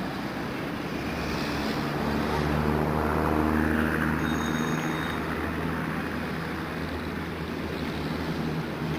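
A heavy vehicle's engine passes, swelling to its loudest about three to four seconds in and then fading, over steady traffic noise.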